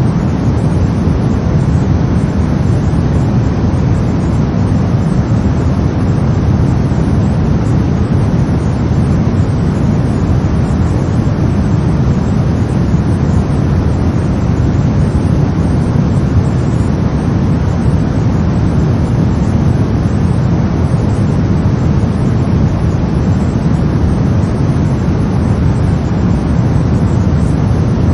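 Brown noise: a steady, deep rumbling hiss, strongest in the low end, with no change in level or pattern.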